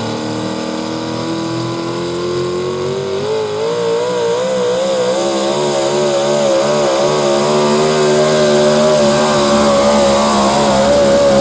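Modified 4x4 pulling truck's engine at full throttle during a pull. Its pitch climbs over the first few seconds, wavers rapidly up and down through the middle as the truck bounces down the track, then holds steady at a high pitch.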